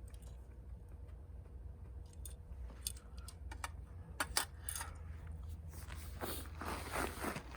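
A series of sharp, separate light clicks and clinks of small hard objects being handled, then a denser rustling near the end, over a steady low rumble.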